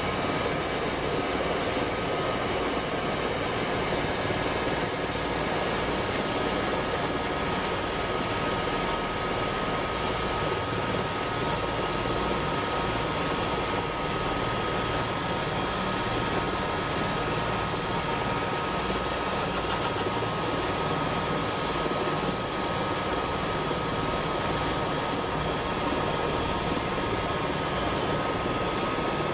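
Helicopter running steadily: an even rush of rotor and engine noise with a constant high whine over it.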